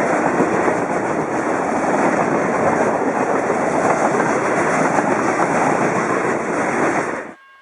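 Train cars rolling past close by, their wheels clattering steadily over the rail joints. The sound cuts off suddenly near the end.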